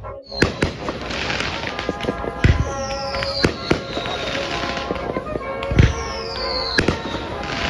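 Consumer fireworks going off: a run of sharp pops and crackles, with two deep booms, each followed by a falling whistle.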